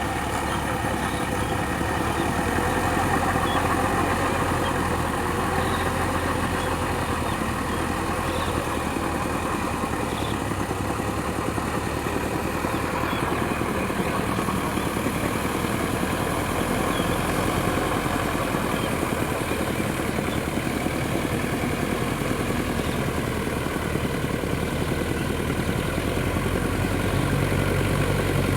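Sonalika DI 750 tractor's diesel engine running steadily.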